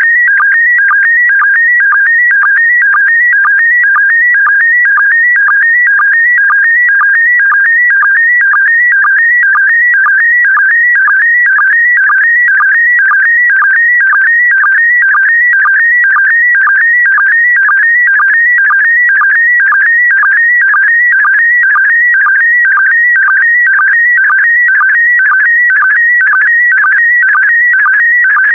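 Slow-scan television signal in PD120 mode: a loud, high, warbling electronic tone that chirps in an even rhythm about twice a second. Each chirp marks a sync pulse that starts the next pair of image lines, while the warble between the pulses carries the picture's brightness and colour.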